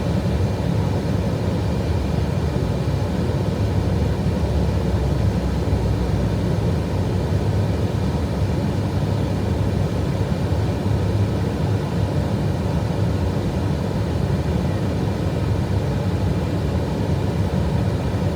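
Steady rumble of airflow and engines heard inside an Airbus A320 cockpit, even and unchanging, with no sudden events.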